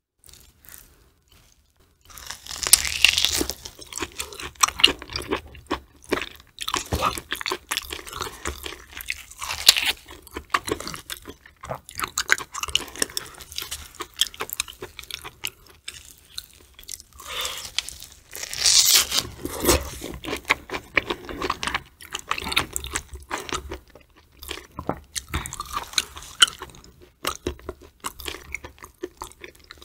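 A person biting into and chewing a large piece of raw tuna navel belly sashimi. The mouth sounds are loudest about three seconds in and again about two-thirds of the way through.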